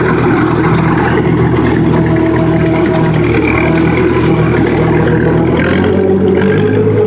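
Tractor engine running steadily under load, driving a PTO brush hog (rotary mower) as it cuts a field; the engine note shifts slightly about five and a half seconds in.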